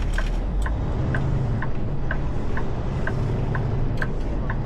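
Truck engine idling with a steady low rumble while a flasher relay ticks evenly, about two clicks a second, as with hazard lights or a turn signal left on.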